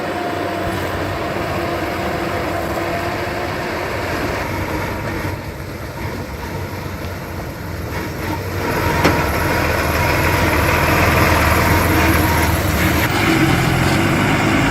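Heavy earthmoving machinery running steadily. The sound eases off slightly about five seconds in, then grows louder from about nine seconds in, with a single sharp click around then.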